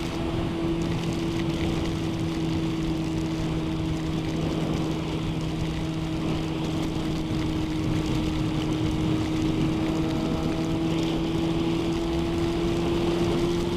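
Motorcycle engine running at a steady cruising speed, holding one even note under a constant rush of wind and road noise.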